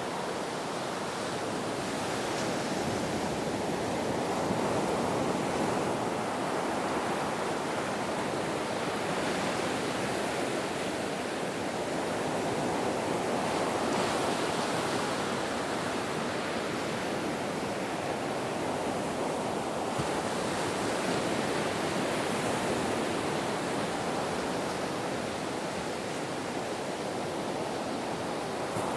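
Ocean waves washing onto a shore in a steady surf, swelling and easing gently every few seconds.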